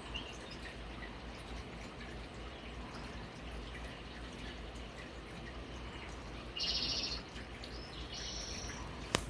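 Small birds chirping on a bird-watching video played through a TV's speakers: two short, high trilled calls about six and a half and eight seconds in, over a steady background hiss. A sharp click comes just before the end.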